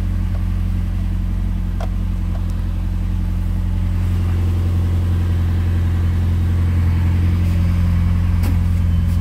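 Turbocharged 2.5-litre flat-four engine of a 2005 Subaru Baja idling steadily after a cold start, heard from inside the cabin.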